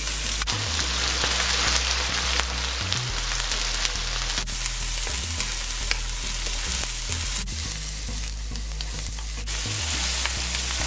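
Chopped onion, peppers and garlic sizzling steadily in hot oil in a nonstick wok, stirred with a wooden spoon.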